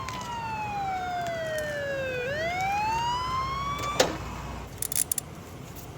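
Police car siren wailing: its pitch slides slowly down, then sweeps back up, and it cuts off with a click about four seconds in. A few faint clicks follow near the end.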